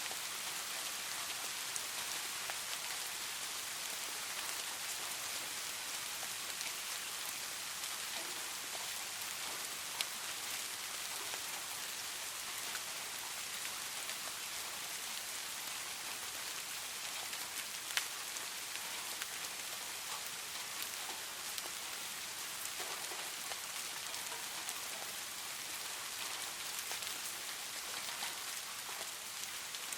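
Steady rain: an even hiss of falling rain with scattered sharper drip impacts, twice standing out clearly.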